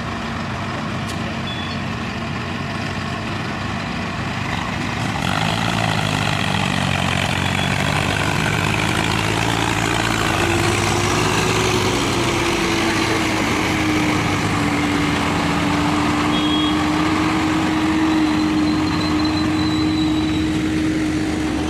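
Hindustan 60 tractor engine running under load, getting louder about five seconds in as it works harder. A steady whining tone joins about ten seconds in.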